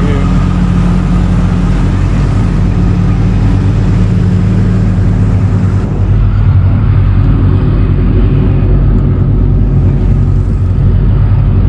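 Car engine idling nearby, a loud, steady low drone.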